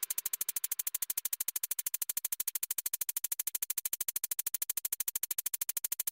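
Synthesized pulsing from the background music: a fast, even throb of about ten pulses a second, quieter than the music before it, that cuts off abruptly at the end.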